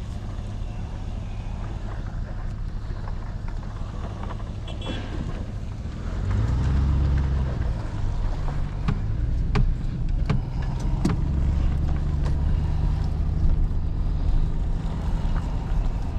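Truck engine running at a steady idle, then louder with a short rise in pitch about six seconds in as it is given more throttle. A few sharp knocks or clanks come around the middle.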